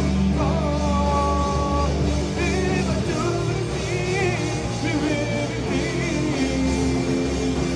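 Heavy metal band playing live in a gap between sung lines: distorted guitars and bass, with a lead line of long held notes that waver in pitch above them.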